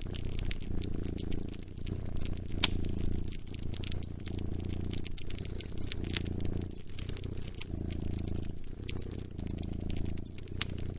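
A cat purring in even bouts, one for each breath in and out. Over it comes the irregular crackle and snapping of a campfire, with one louder snap about two and a half seconds in.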